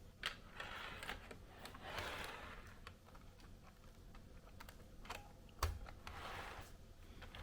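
Light clicks and short, soft rustles of small plastic parts being handled, typical of model train cars and their plastic packaging.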